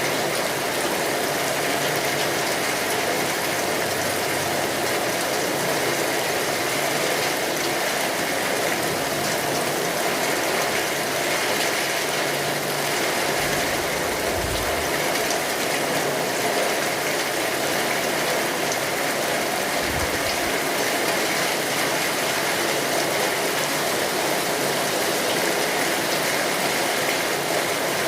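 Rain falling steadily on a tin roof, mixed with a fire crackling; a dense, even wash of sound that holds at one level throughout.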